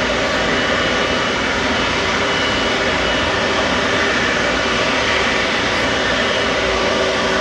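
Jet airliner engines running, a steady loud rush of noise with faint steady whining tones in it.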